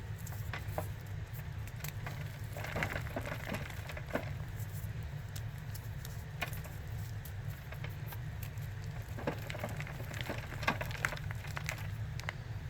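Packed cornstarch mixed with Ajax powder being crunched, in crackling clicks that come in two denser bouts, about a quarter of the way in and again near the end. A steady low hum runs underneath.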